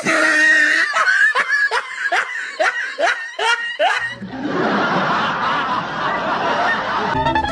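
A person laughing hard in rhythmic bursts, about three a second, for about four seconds. Then a steady noisy rush takes over until near the end, where a voice briefly comes in.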